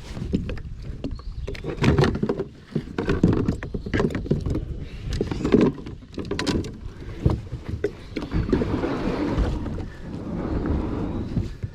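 Wilderness Systems Tarpon 105 kayak being paddled: paddle blades splashing through the water in uneven strokes, with scattered sharp knocks.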